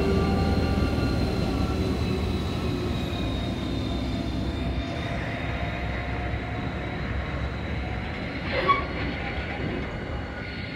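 Freight train of tank-container wagons rolling past behind an 81 class diesel-electric locomotive. The locomotive's engine fades as it pulls away under a steady rumble of wheels on the rails, with faint high steady squeal tones. A sharp clank comes about eight and a half seconds in.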